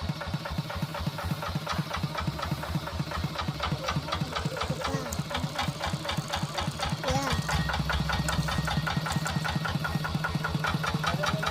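Tractor engine running with a steady, even pulsing beat, growing a little louder about two-thirds of the way in.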